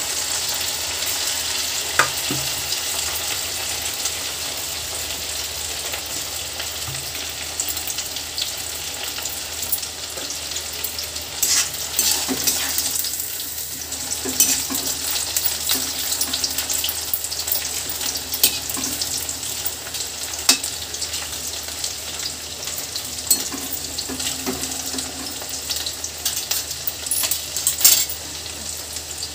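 Cornflour-coated chicken pieces deep-frying in hot oil in an iron kadhai: a steady sizzle with fine crackling. A spoon stirs the pieces around the middle, and there are a few sharp clicks.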